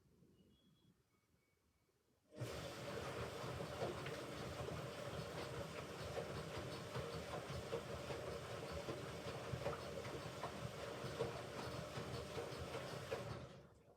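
Hoover Ecologic Computer Washer 1300 washing machine with water rushing through it during its rinse cycle: a steady hiss that starts suddenly a couple of seconds in and cuts off abruptly shortly before the end.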